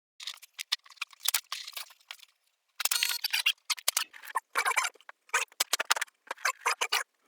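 A rapid, irregular series of short scrapes and taps, in clusters broken by brief gaps of silence.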